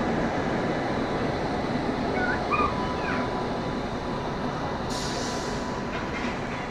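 A dog giving a few short whimpers and yips about two to three seconds in, over steady background noise, with a short hiss about five seconds in.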